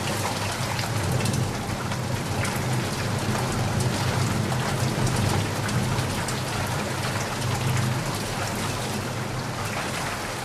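Steady heavy rain, a dense patter of drops hitting a surface, with a low steady rumble underneath.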